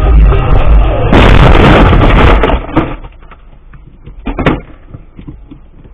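A loud crash about a second in, a noisy impact lasting just over a second, typical of a car collision picked up by a dash cam's microphone, followed by a single short knock a few seconds later.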